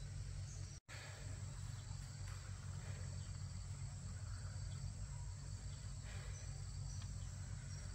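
Insects chirring steadily over a continuous low rumble. The sound cuts out completely for a moment just under a second in.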